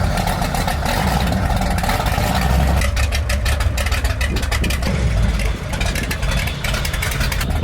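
A truck engine runs loudly and steadily, with a rapid crackle of sharp clicks over it from about three seconds in until near the end.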